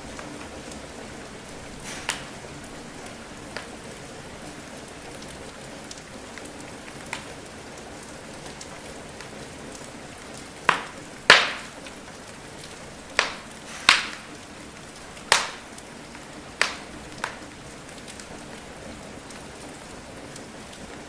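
Steady rain hiss with a wood fire crackling, sharp pops coming at irregular times, a cluster of louder ones about halfway through.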